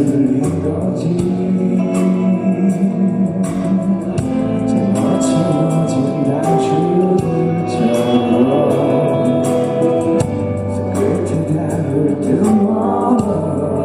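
A male singer performing a pop ballad live, backed by a band with percussion keeping a steady beat.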